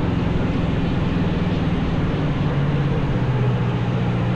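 Small 100cc racing engine running at steady revs; its pitch dips a little about halfway through, then holds.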